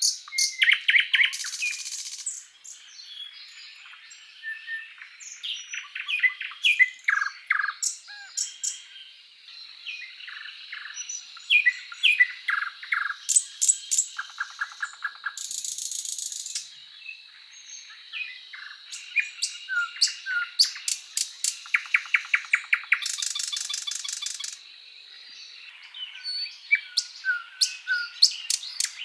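Many birds chirping, whistling and trilling together, with short calls overlapping and several rapid buzzy trills lasting a second or so each. A faint steady high tone runs beneath them.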